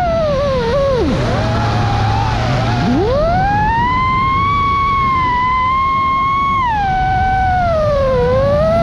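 FPV quadcopter's electric motors and propellers whining, the pitch following the throttle. The whine drops sharply to a low hum about a second in, rises back and holds for several seconds, then dips and climbs again near the end.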